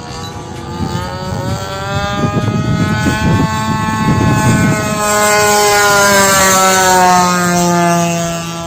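A DLE 20cc single-cylinder two-stroke gas engine with a Pitts muffler, running in an RC model plane in flight. Its pitch rises over the first few seconds and then falls slowly, and it is loudest in the second half.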